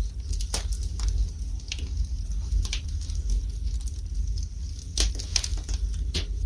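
Wood fire burning in a fireplace, with irregular sharp crackles and pops from the burning logs, a cluster of louder pops about five seconds in, over a steady low rumble.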